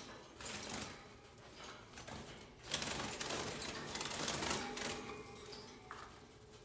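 Young canaries fluttering their wings in alarm inside a cage: a rapid clattering flutter, loudest in the middle.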